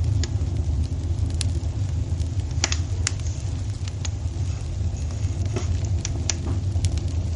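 Wood fire burning in a fireplace: a steady low rumble with sharp crackles and pops at irregular moments, about a dozen over the stretch.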